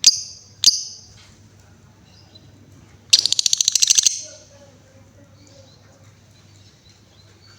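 Female lovebird calling: two sharp, high chirps within the first second, then about three seconds in, a fast rattling trill of rapid pulses lasting about a second (the chattering 'ngekek').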